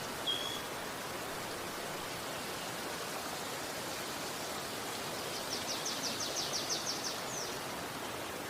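Steady rush of flowing river water. A bird gives a short high chirp just after the start. Later, from about five to seven seconds in, a bird sings a rapid trill of about a dozen high notes, ending in an upward slur.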